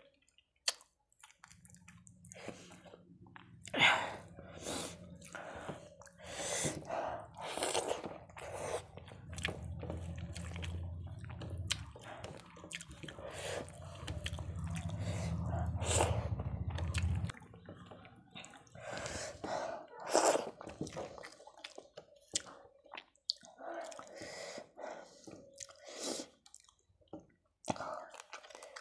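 Close-miked eating sounds of a person eating rice and fish curry by hand: wet chewing, lip smacks and many short irregular clicks. A low hum starts about a second in and cuts off suddenly about two thirds of the way through.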